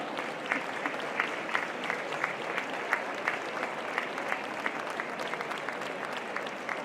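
Audience applauding steadily, with separate hand claps standing out.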